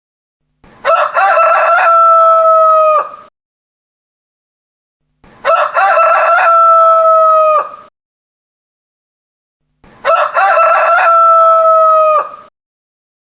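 Rooster crowing three times, about every four and a half seconds: each cock-a-doodle-doo opens with short broken notes, then holds one long note that drops away at the end, with dead silence between crows.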